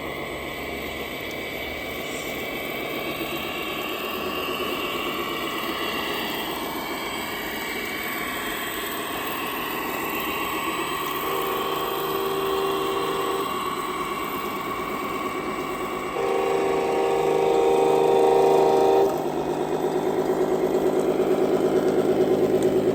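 Radio-controlled scale truck running, its motor and drivetrain giving steady tones that step up and down in pitch with the throttle, louder from about two-thirds of the way in.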